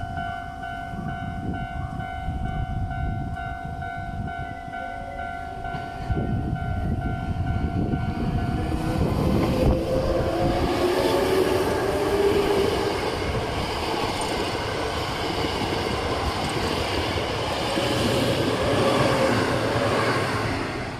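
Japanese level-crossing warning bell ringing in an even, repeating pattern. About nine seconds in, a Hankyu train goes over the crossing, loud with wheel and rail noise and a whine that slides in pitch.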